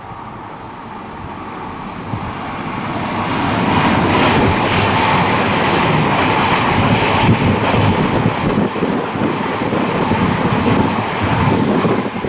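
Odakyu 5000 series electric train passing through the station, its wheels running on the rails. The noise builds over the first few seconds, stays loud, and falls away near the end.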